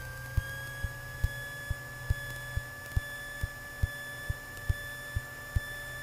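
Piper Archer II's four-cylinder Lycoming engine idling very low, about 500 RPM, heard through the cockpit intercom as a low hum with a regular thump about twice a second. A steady electrical whine runs over it, rising slightly before it settles.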